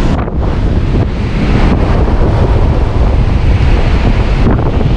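Hurricane-force wind in Ian's eyewall blowing hard and steady, with heavy wind buffeting on the microphone: a loud rushing with a deep rumble underneath.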